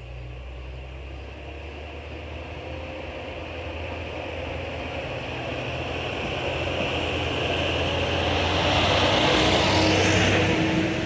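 Diesel railcar approaching on the line, its engine drone and wheel noise growing steadily louder to a peak about ten seconds in, then starting to fade as it passes.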